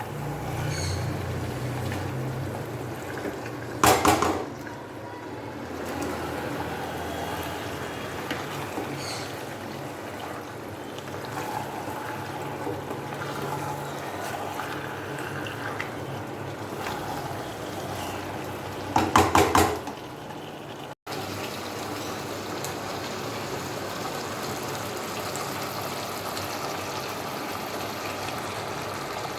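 Marinated chicken and potatoes cooking in oil in a pot, with a steady sizzle. A utensil clatters against the pot twice, briefly and loudly.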